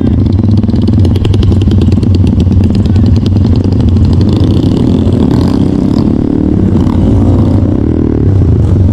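Trail motorcycle engine running under throttle, its pitch rising and falling in the second half as the rider works the throttle.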